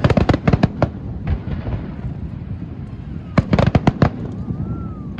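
Fireworks display: rapid clusters of sharp bangs, one at the start and another about three and a half seconds in, over a continuous low rumble.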